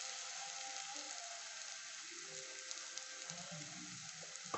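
Diced vegetables with ground coriander-leaf and green-chili paste frying in oil in a pan, a soft, steady sizzle.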